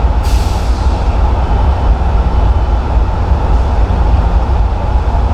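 Train at the station, a loud steady rumble throughout, with a brief hiss just after the start.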